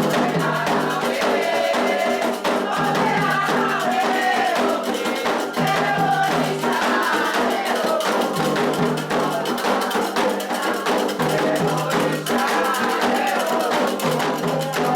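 Candomblé toque for Oxossi and Ossaim: atabaque hand drums and shaken and struck percussion keeping a dense, fast rhythm under repeated sung phrases.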